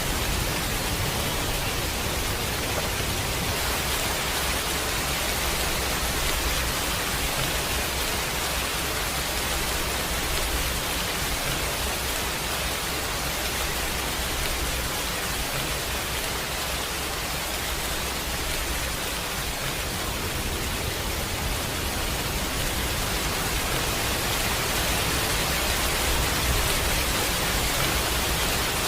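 Steady rainfall, an even hiss with a low rumble underneath and no distinct thunderclap.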